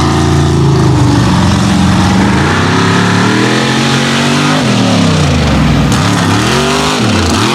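Mega truck's engine revving hard, its pitch rising and falling again and again as the throttle is worked on and off.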